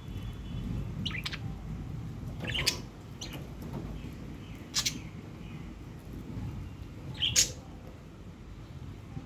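Pet budgerigar giving short, sharp chirps and squawks, about five spaced a second or two apart, the loudest near the end. A steady low rumble runs underneath.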